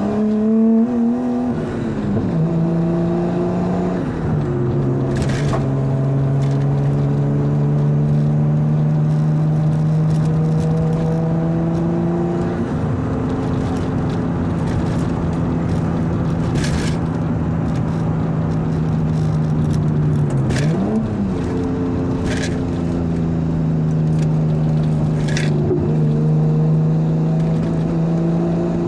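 Nissan Skyline R33's turbocharged RB25DET straight-six with a high-flow turbo and straight-pipe exhaust, cruising at steady revs. Its note shifts in pitch a few times, and there are several short sharp cracks.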